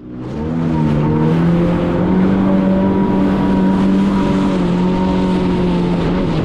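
Yamaha VX Cruiser H.O. Waverunner's four-stroke engine running under throttle, fading in at the start and rising a little in pitch over the first couple of seconds before holding steady, over a broad rushing noise.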